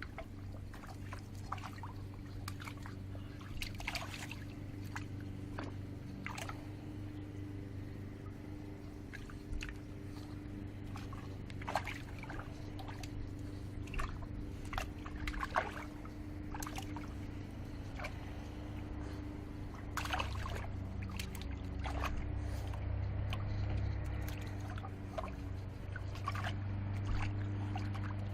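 Water in a bird bath splashing and sloshing in short irregular strokes as a Boston terrier–French bulldog mix plays in it, over a steady low hum.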